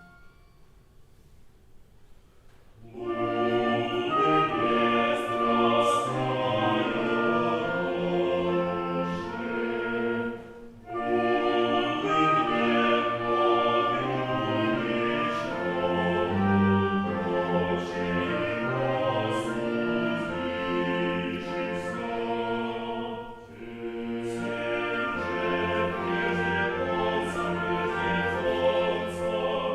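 A choir singing a piece of early Russian music with instrumental accompaniment. It begins after a short hush, about three seconds in, and runs in three phrases with brief breaks between them.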